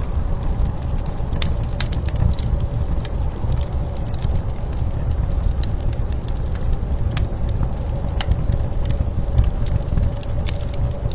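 Wood fire crackling with scattered sharp pops over a steady low rumble of blizzard wind.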